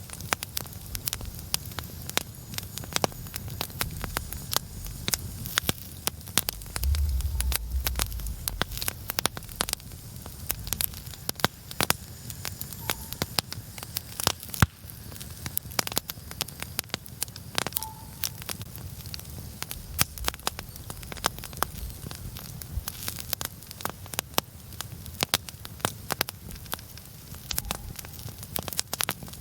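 Larch-wood campfire crackling, with dense, irregular sharp pops. A brief low rumble comes about seven seconds in.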